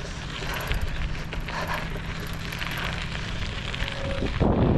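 Wind noise on a head-mounted GoPro's microphone during a bicycle ride, a steady rush with a louder gust near the end.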